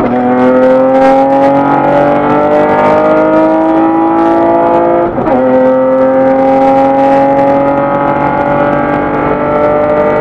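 Acura TL's engine at full throttle, heard from inside the cabin, its pitch climbing steadily as the car accelerates. About five seconds in, an upshift briefly drops the pitch before it climbs again.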